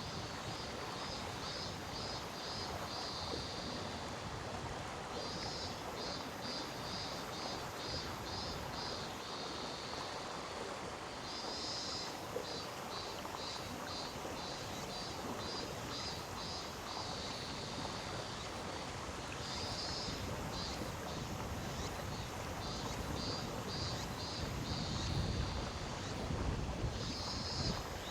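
Mountain stream water flowing steadily over rocks, with a high, pulsing call repeating at about three pulses a second in phrases that each open with a longer burst. A low rumble swells briefly near the end.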